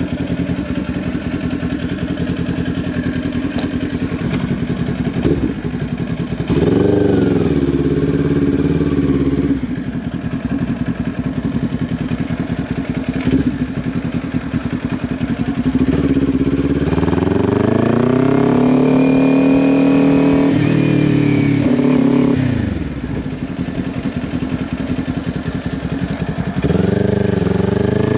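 Kawasaki Ninja 400's parallel-twin engine through a Leo Vince LV10 exhaust, running at low revs, then climbing as the bike accelerates about six seconds in and easing off again. It pulls up once more for several seconds past the middle, drops back, and rises again near the end.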